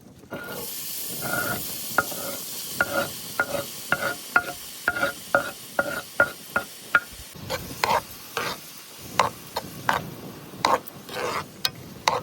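Food sizzling in a frying pan while a metal utensil stirs and scrapes it, striking the pan about twice a second with a light metallic ring.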